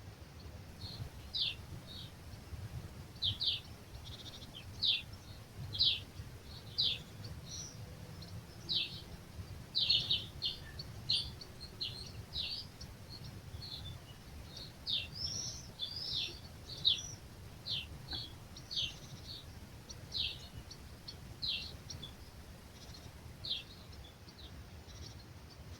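Birds at dawn giving short, high, down-slurred chirps, about one a second with some quick clusters, over a low rumble of breeze.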